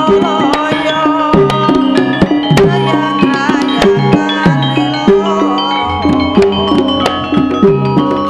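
Javanese gamelan music accompanying a lengger dance: steady ringing metallophone and gong-chime tones over a busy pattern of hand-drum strokes that drop in pitch, with a wavering melodic line above.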